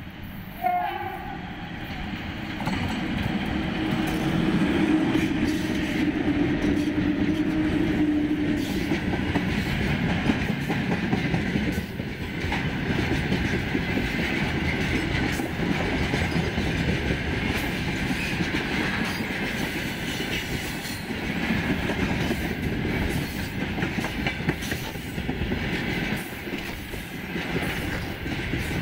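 A VL11.8 twin-section electric locomotive and its train of tank wagons running past close by: a steady rumble with wheels clattering over the rail joints. A steady tone is held for about five seconds, a few seconds in.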